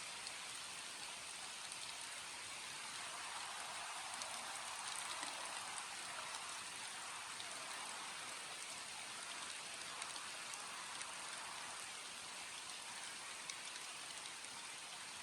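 Steady rain falling and pattering on surfaces, with the odd sharper drop.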